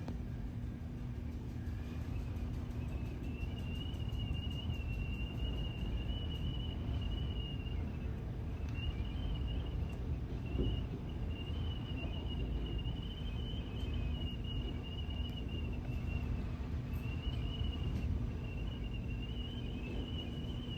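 Strong wind rumbling over the microphone, with a steady low hum under it and a thin, wavering high whistle that comes and goes.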